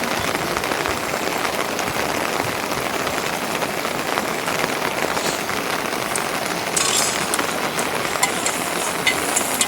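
Steady rain falling, an even wash of sound, with a few sharper clicks in the last few seconds.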